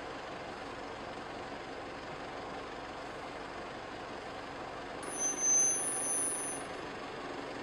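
Steady hum of idling car engines. About five seconds in, a brief high-pitched tone rises above it for a second or so.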